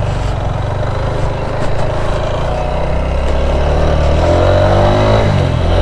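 Motorcycle engine pulling away under acceleration, its pitch climbing steadily, then dropping suddenly at a gear change near the end before pulling again.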